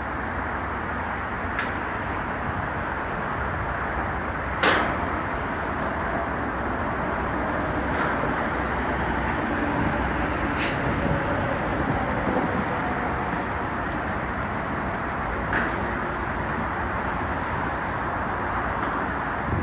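Steady road traffic noise with a few sharp clicks, two louder ones about five and eleven seconds in.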